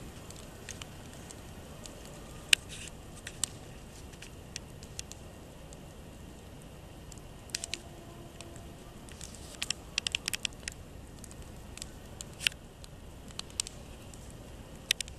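Campfire crackling: scattered sharp pops and snaps, a quick run of them about two-thirds of the way through, over a low steady hiss.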